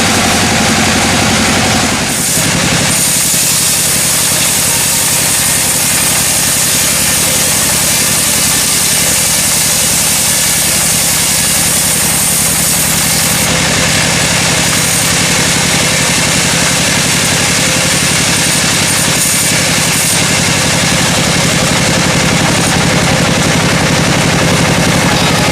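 Sawmill machinery running steadily: an engine drone under a dense, continuous hiss, with a short break in the sound about two seconds in.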